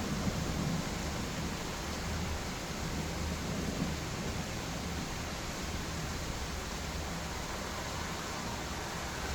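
Steady rain falling, an even hiss, with the low rumble of thunder dying away in the first moments.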